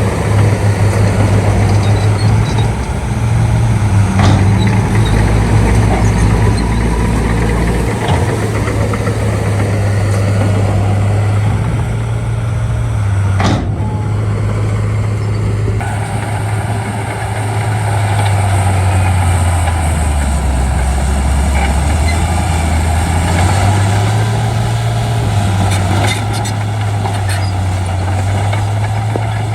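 Shantui D95 bulldozer's diesel engine running under load while pushing fill, its pitch dipping and then rising again past the middle as the load changes. A single sharp knock about halfway through.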